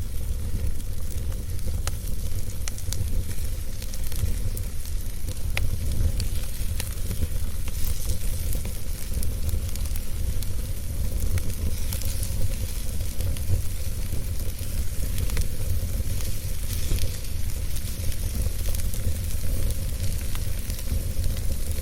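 Burning wood fire crackling, with scattered sharp pops over a steady low rumble and hiss.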